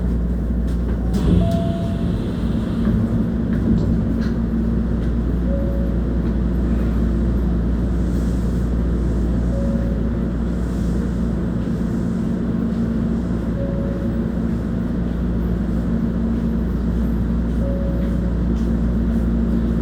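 Inside a Hankyu 1300 series electric train standing at a station: steady hum of onboard equipment and air conditioning, with no traction-motor whine. There is a sharp click about a second in.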